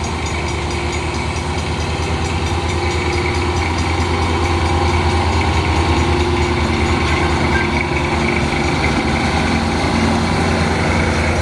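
An engine running steadily with a strong low hum, slowly getting a little louder over the first half.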